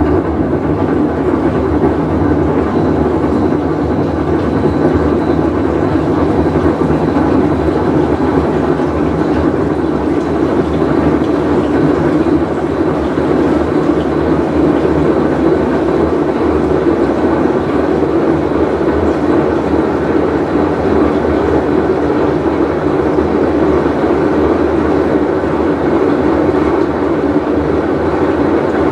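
Whirlpool Cabrio top-load washing machine running with a loud, steady rumbling drone over a low hum, the sound of its failing tub bearing.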